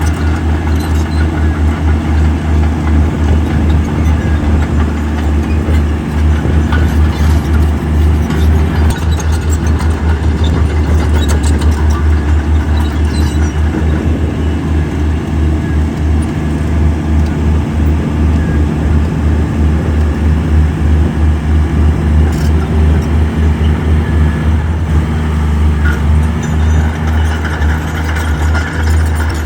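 Heavy diesel engine of earth-moving machinery running steadily with a deep, pulsing low throb, with a few short knocks over it.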